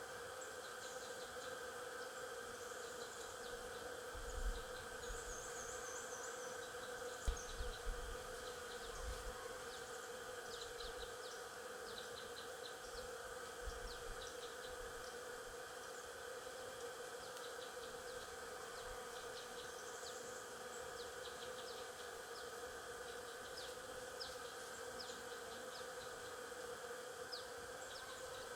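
Stingless bees buzzing in a steady hum, with many brief high chirps scattered over it. A few low thumps come about four seconds in and again around seven to nine seconds.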